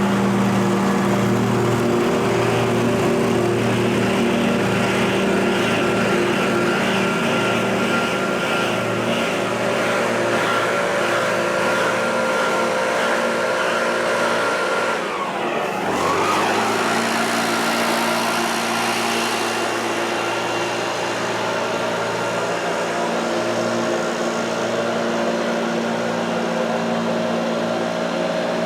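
Small gas engine of lawn-care equipment running steadily at working speed. About halfway through, the engine speed drops briefly and comes straight back up.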